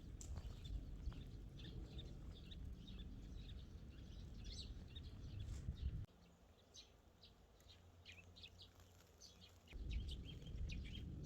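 Small birds chirping in quick, short calls, over a low rumble of wind noise that drops away for a few seconds in the middle.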